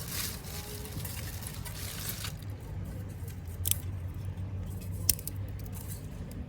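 Wood fire in a Solo Stove crackling, with scattered sharp snaps and two louder pops a few seconds in, over a steady low rumble.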